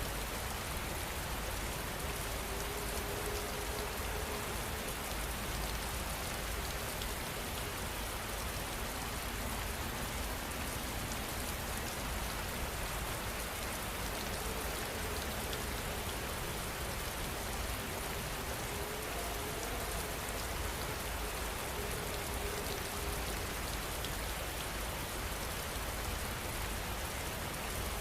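Steady rain falling and pattering on a surface, an even hiss at constant level. A faint low tone comes and goes a few times under the rain.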